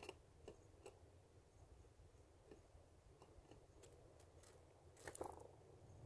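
Faint, scattered ticks and taps over near silence, with a short flurry about five seconds in: a small bird foraging among sunflower seeds on a wooden platform feeder.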